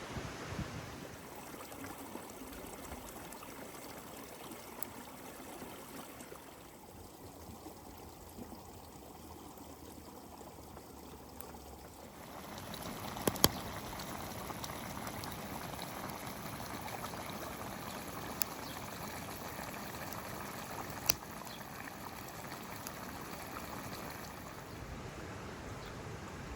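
A steady water sound that gets louder about halfway through, with a few sharp clicks over it.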